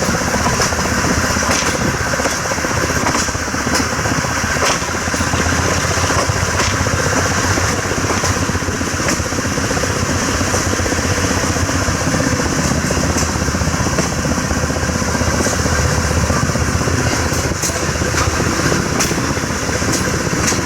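A train running along the track: a steady loud rumble and rattle, with sharp clicks every second or so from the wheels and couplings.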